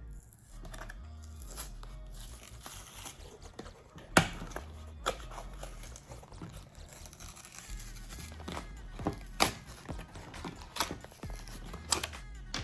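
A die-cast toy car's blister package being torn open by hand: the plastic blister and cardboard backing crackle and rip, with repeated sharp snaps. The loudest snap comes about four seconds in.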